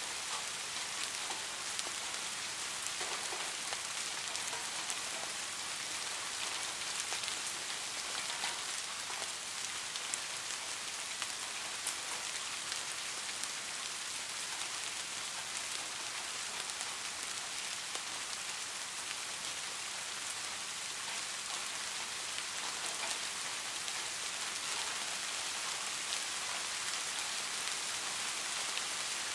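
Steady rainfall: an even hiss of rain falling on surfaces, with faint scattered drop ticks.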